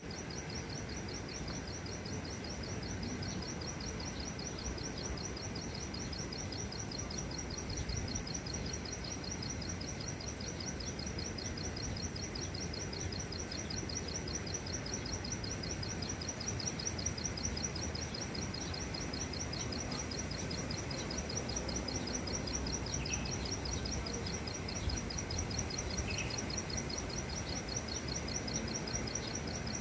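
A small wild bird of the kind called 'klik-klik' giving an unbroken, even string of rapid high clicking notes, over a steady low background rumble. Two short separate notes come near the end.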